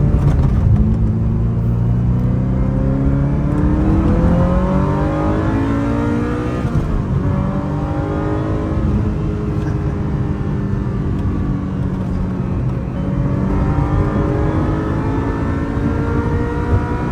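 Ferrari F355's V8, mounted behind the seats and heard from inside the open cabin, pulling hard through the gears. Its pitch climbs steadily, drops sharply at an upshift about 7 seconds in and again about 12 seconds in, then climbs again.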